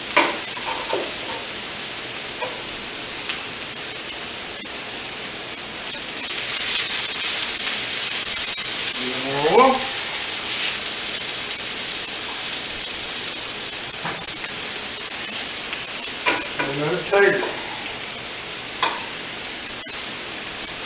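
Peppers, onions and beef sausage sizzling in oil on a gas flat-top griddle, a steady frying hiss that grows louder about six seconds in and eases back down after about sixteen seconds.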